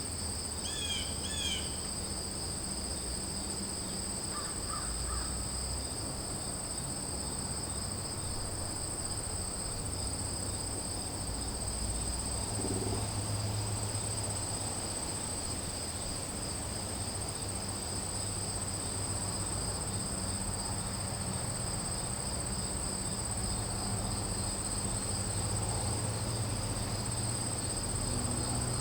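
Steady chorus of crickets trilling in two high pitches, with a few crow caws about a second in and a faint low rumble underneath.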